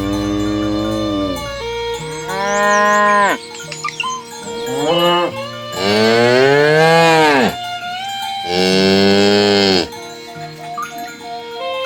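Cows mooing, about five separate moos that each rise and then fall in pitch; the last two are the longest and loudest.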